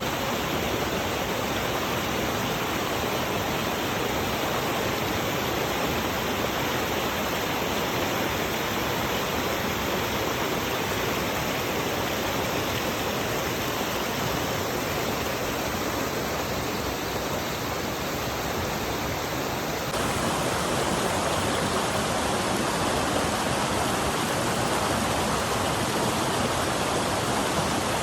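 Waterfall rushing, a steady loud noise of falling water; it jumps a little louder and fuller about two-thirds of the way through.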